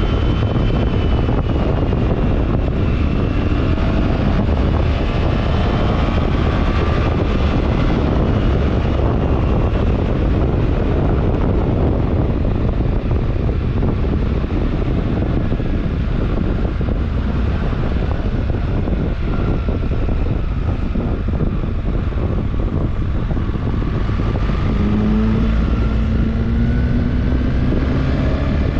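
BMW R1300GS Adventure's boxer-twin engine running on the move, under heavy wind noise on the microphone. The engine note sinks gradually over the first half and climbs again near the end.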